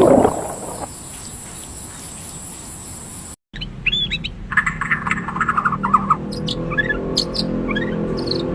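Small birds chirping: a rapid trill followed by scattered short, high chirps, starting after an abrupt cut about three and a half seconds in, over low steady tones. Before the cut there is a brief noisy rush, then steady hiss.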